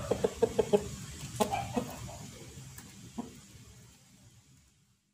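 Chickens clucking: a quick run of short clucks in the first second, a few more scattered calls, then the sound fades out to silence near the end.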